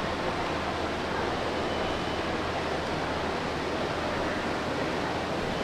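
Steady ambient wash of a busy shopping mall: indistinct crowd chatter and background noise blended into an even hiss-like roar.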